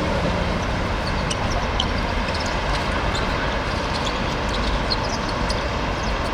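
Steady outdoor background noise, heaviest in the low end, with scattered faint short high-pitched chirps.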